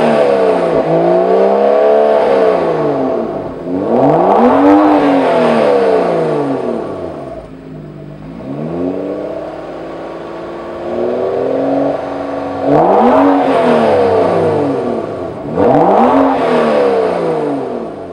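BMW F30 335i's turbocharged 3.0-litre inline-six revving through a Borla ATAK stainless steel exhaust: the engine is blipped up and falls back about five times, each rev climbing in pitch and dropping away, with a smaller, slower rise in the middle.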